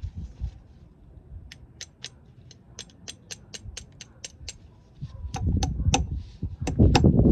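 A ratchet mechanism clicking steadily, about three to four clicks a second, starting after a second or so. About five seconds in, a louder low rumbling comes in beneath the clicks, which grow louder too.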